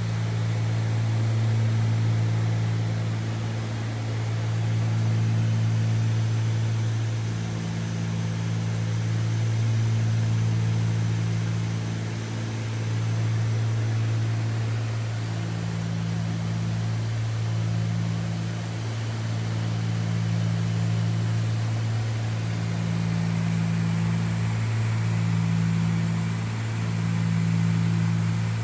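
Cessna 310Q cockpit in cruise: the twin Continental IO-470 engines and propellers give a steady low drone. A slow beat rises and falls every second or two, over steady airflow hiss.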